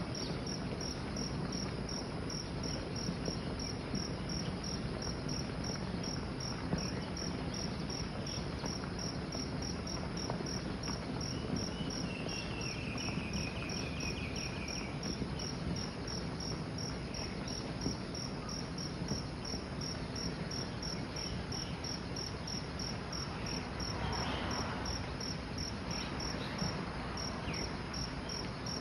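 Insect chirping in a steady, even rhythm of about three high-pitched pulses a second, over a constant rushing background noise.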